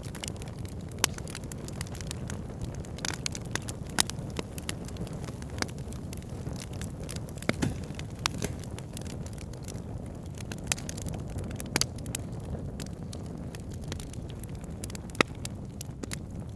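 Wood fire burning in a fireplace: a steady low rush of flames with frequent sharp crackles and pops. A few louder pops stand out, about a second in, around four seconds, and near the end.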